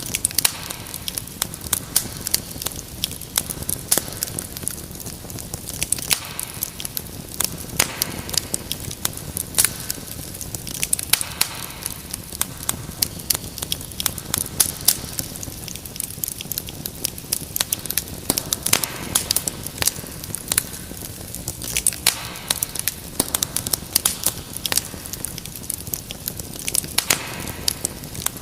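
Wood fire crackling and popping: irregular sharp crackles, many each second, over a steady low hiss and rumble of burning logs.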